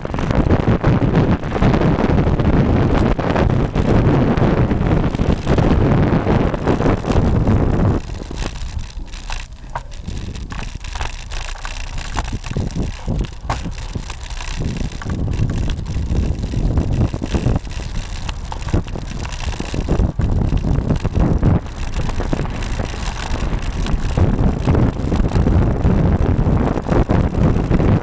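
Wind buffeting the microphone of a bike-mounted camera on a moving road bike, with road and tyre noise and scattered knocks. The rush eases for several seconds about a third of the way in, then builds again.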